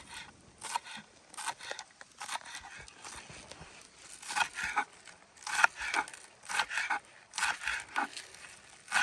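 Knife chopping fresh herbs and green onion finely on a cutting board: a run of quick, irregular chopping strokes in short clusters.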